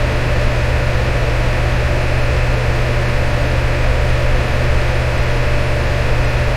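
Electric fan running steadily: an even whoosh of moving air over a strong low hum.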